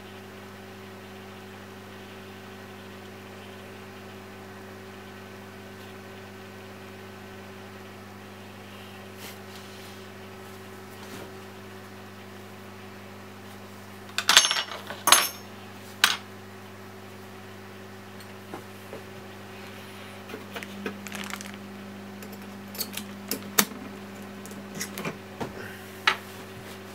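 Small metal parts clinking against a hard surface: a few sharp, ringing clinks about halfway through, then scattered lighter clicks and taps of handling, over a steady low electrical hum.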